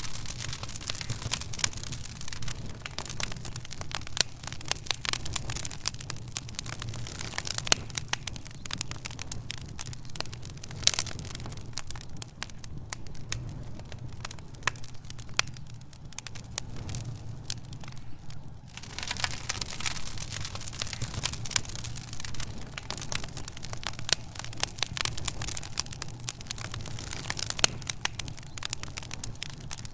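Wood fire in a fireplace crackling: a dense, irregular stream of pops and snaps over a steady low rumble. The snaps grow busier about two-thirds of the way through.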